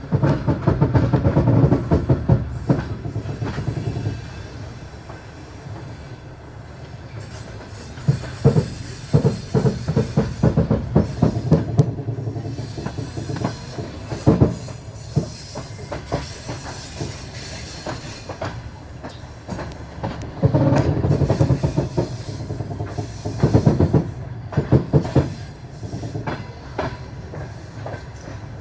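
Train wheels clattering over rail joints: clusters of quick knocks come every few seconds, with a steady rumble in between.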